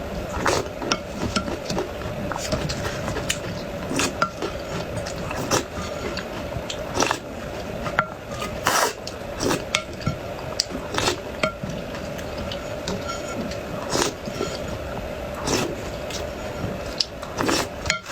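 Cutlery clinking and tapping against dishes during eating, in irregular sharp clicks about every second, over a steady hum.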